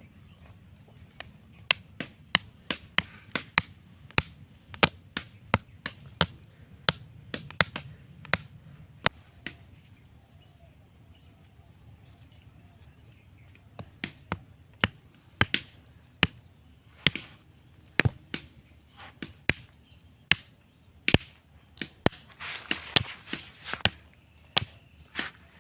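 Irregular sharp knocks of a blade chopping wood, one or two a second, stopping for a few seconds in the middle and then going on, with a stretch of scraping and rustling near the end.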